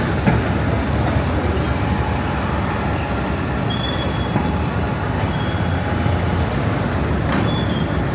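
Steady low rumble of road traffic, with a few faint, brief high-pitched squeals over it.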